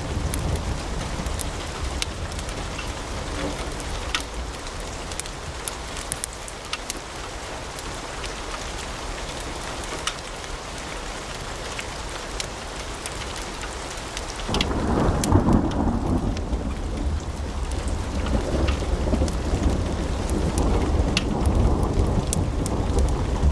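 Wood fire burning in a fireplace: a steady low rumble of flames with frequent sharp crackles and pops. About halfway through, the fire's rumble grows louder and deeper while the high crackling thins out.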